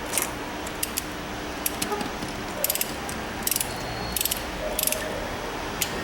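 Ratchet wrench clicking in short bursts of rapid ratcheting, about eight times at uneven intervals, as spark plugs are run in by hand.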